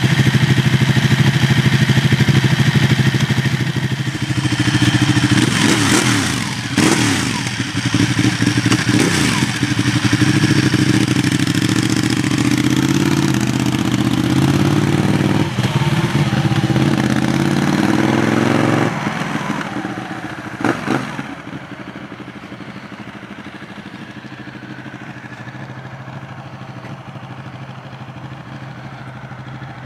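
Ducati Panigale 1199's Superquadro L-twin engine running at raised revs, with the revs swept up and back down several times, then settling to a quieter idle about 19 seconds in. Two short sharp knocks come just after the revs drop.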